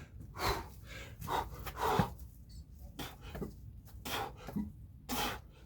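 A man breathing hard, with about seven gasping, panting breaths in and out while doing a Navy SEAL burpee, and a short thump about two seconds in.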